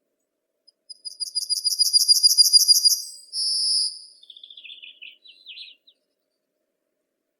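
A songbird singing one phrase: a fast run of high repeated notes, ending in a longer drawn-out note, followed by softer, lower twittering.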